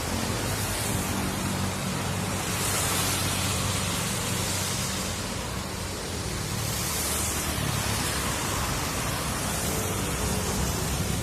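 Steady rain hiss mixed with a vehicle engine's low hum; the hiss swells and eases every few seconds.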